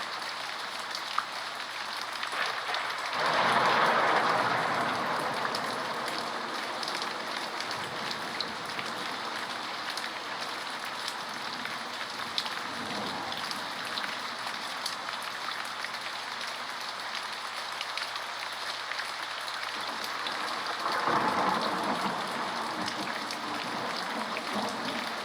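Steady rain falling, with two louder swells of heavier rain lasting a couple of seconds each, one a few seconds in and one near the end.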